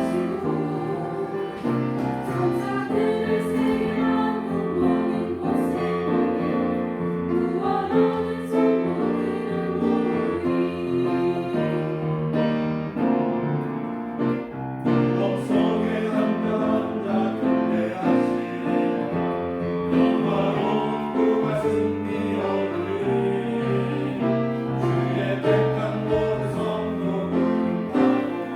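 Church choir singing a hymn in harmony with piano accompaniment.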